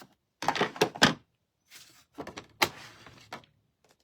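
Paper or card stock being handled: several bouts of rustling and sliding, with a couple of sharp taps in the second half.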